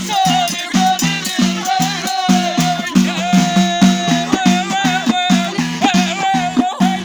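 Abidat Rma folk song: voices singing over a fast, steady beat of hand drums, about four strokes a second.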